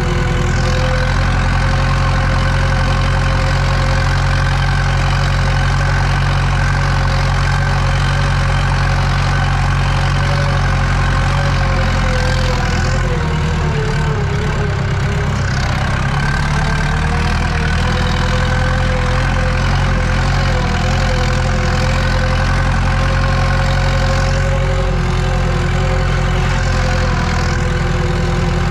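Tractor engine running steadily under load while pulling a cultivator, heard from inside the cab; its note sags briefly about halfway through and then picks up again.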